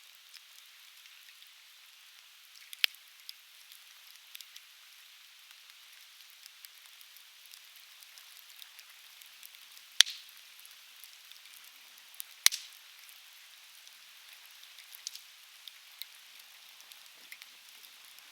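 Softwood logs burning in a fire pit, crackling with scattered small snaps and three loud sharp pops, over a steady hiss.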